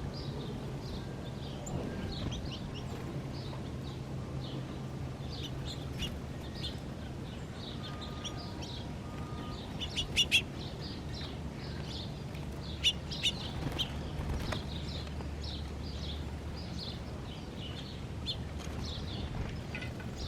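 Small birds chirping repeatedly in quick, short high notes, thickest about halfway through, over a steady low hum.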